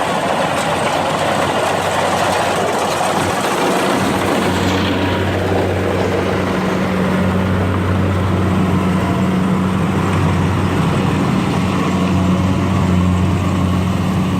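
A heavy machine's engine running steadily, loud, with a rushing noise over it at first. About four and a half seconds in the high noise drops away and a steady low engine hum takes over.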